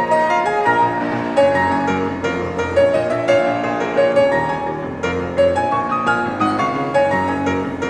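Live chamber music from a quartet of two flutes, clarinet and piano, with the piano most prominent here and many quick notes.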